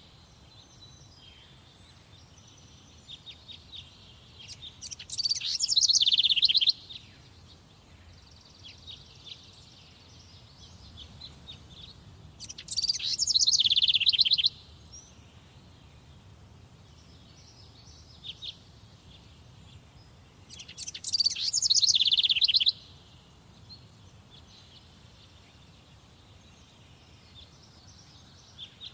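Songbirds singing in a forest: one bird repeats a loud song phrase of about two seconds three times, roughly every eight seconds, each phrase ending in a fast run of notes. Fainter calls of other birds come in between.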